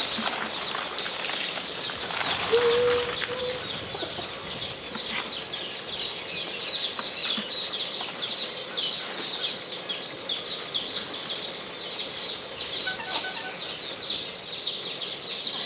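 A brood of baby Cornish Cross meat chicks peeping non-stop, many short, high chirps overlapping.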